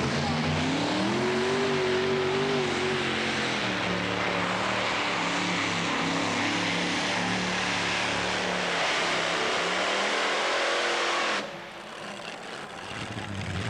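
Competition pulling tractor's engine running hard under load during a pull. Its pitch rises about a second in, falls back, then holds steady under a wide roar. The sound drops off abruptly near the end.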